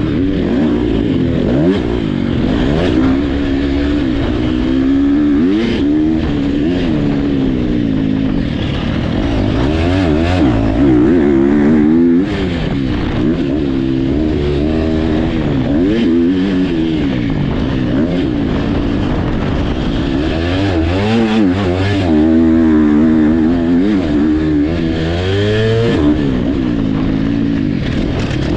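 Motocross dirt bike engines racing, revving up and falling back again and again as they accelerate and shift, with more than one bike heard at once.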